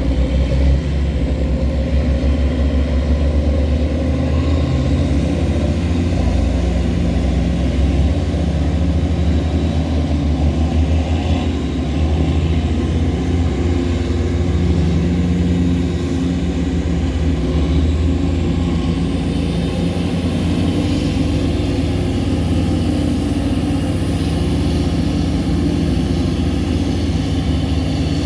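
Tugboat's diesel engine running steadily under load while towing barges, a deep, even engine note that does not change.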